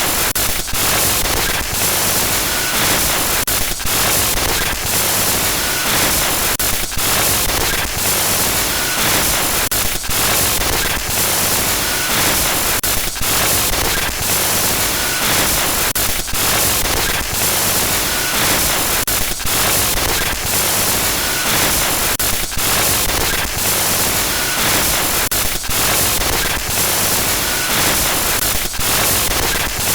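Loud digital glitch static: a dense hiss that stutters with many brief dropouts, and a short faint high blip every few seconds.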